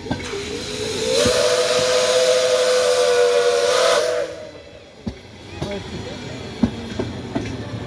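P36-class steam locomotive's steam whistle sounding a departure signal: a two-note blast of about three seconds with a rush of steam hiss, swelling in after a softer start and cutting off sharply. A few sharp knocks follow.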